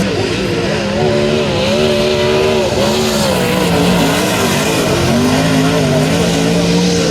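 Several sprint car engines racing on a dirt oval at once, their pitches rising and falling over and over as the cars circle the track.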